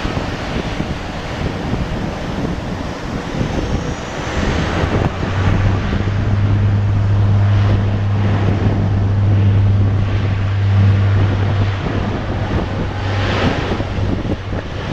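Bombardier Dash 8 Q400 turboprop taking off: a steady low propeller drone swells in about four seconds in and fades after about twelve, under heavy wind buffeting on the microphone.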